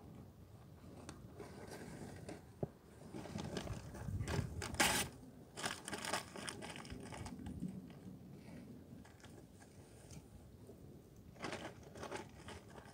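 Crunching, crinkling handling noises as campfire materials are worked by hand, with a few sharper cracks about five seconds in and again near the end.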